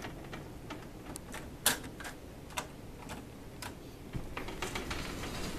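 Scattered light clicks and taps, a few irregular ones with the sharpest about a third of the way in, over a faint low rumble.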